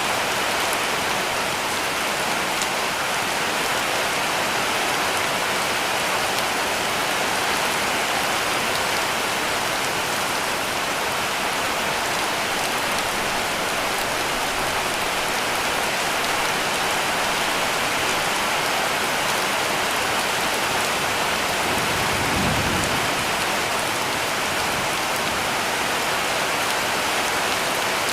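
Heavy rain falling steadily on a cabin roof, a dense even hiss of drops. About three-quarters of the way through comes a brief low rumble.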